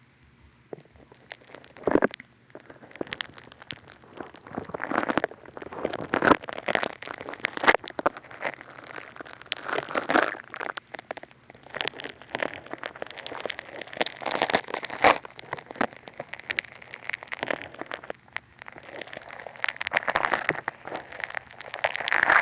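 Funny Foam play foam crackling and squishing against the ear microphones of a binaural dummy head: dense, irregular wet crackles and crunchy swells with scattered sharp clicks.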